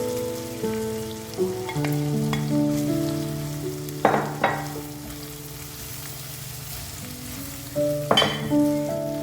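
Background music of sustained, shifting keyboard-like notes over food frying in oil with a steady hiss, and a few sharp scrapes or clinks of a utensil in the pan about four seconds and about eight seconds in.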